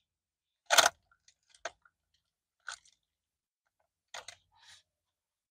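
A bite into a soft pretzel about a second in, then chewing with a few short, quiet mouth clicks.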